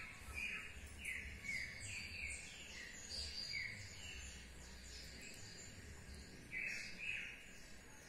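Birds calling: a run of short, downward-sliding chirps, about two a second, then a pause and two louder chirps near the end.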